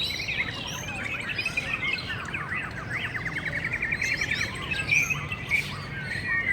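Several caged white-rumped shamas singing at once, a dense overlap of whistled phrases and chirps, with a rapid trill about three seconds in.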